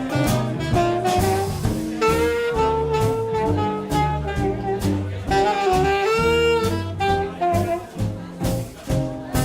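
Live swing band playing an instrumental chorus: a saxophone solo carrying the melody over walking bass and swing drums.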